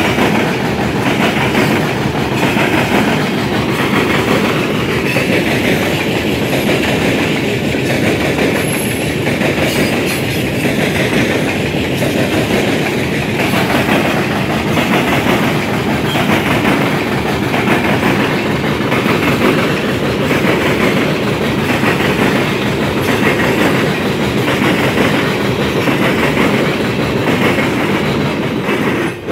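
CSX coal hopper cars rolling past close by, their steel wheels clattering in a steady repeating rhythm over a railroad diamond crossing.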